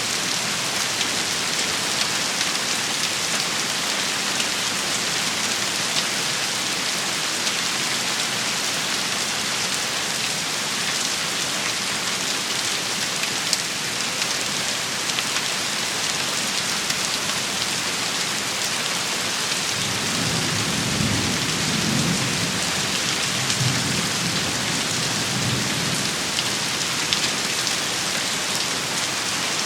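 Steady heavy rain shower falling on surfaces, with a low rumble of thunder rolling for several seconds about two-thirds of the way in.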